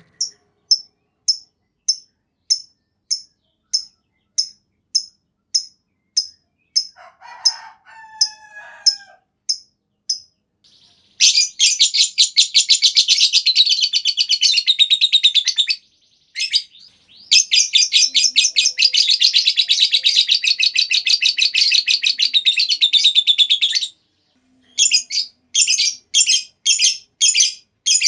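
Lovebird calling: a run of sharp, high chirps about three a second, then two long, rapid chattering trills of about five and six seconds, the long 'ngekek' song, then short chirps again near the end. A fainter, lower, gliding call is heard briefly about a third of the way in.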